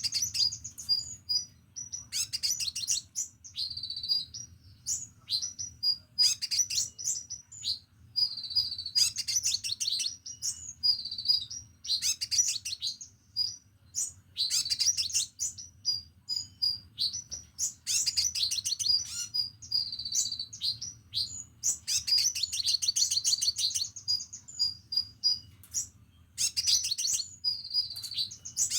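Crimson sunbird singing: rapid, high-pitched twittering trills and chirps in short bursts that come every second or two.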